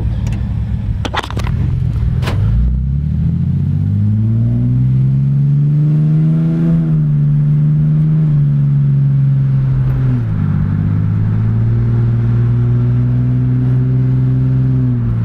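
Ford 4.0-litre single-overhead-cam V6, fitted with a Dynomax Bullet muffler, pulling away under light throttle, heard from inside the cab with the windows down. After a few clicks at the start, the exhaust note rises for a few seconds. It eases as the automatic upshifts, then drops again with a second shift about two-thirds of the way through and settles into a steady cruise.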